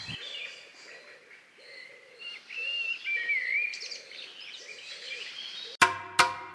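Small birds chirping and calling, with a run of short warbled whistles in the middle. About six seconds in, music cuts in abruptly with sharp percussive hits.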